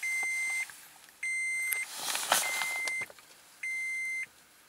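The 2005 Toyota Tundra's cab warning chime beeping steadily, one tone about every 1.2 seconds, with the engine stalled and silent. A brief rustle sounds near the middle.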